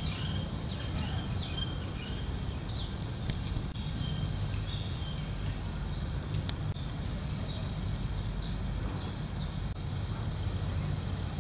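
Birds chirping: about a dozen short, high, falling chirps at irregular intervals, over a steady low rumble.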